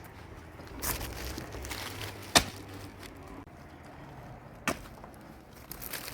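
A few sharp knocks, the loudest about two and a half seconds in and another a couple of seconds later.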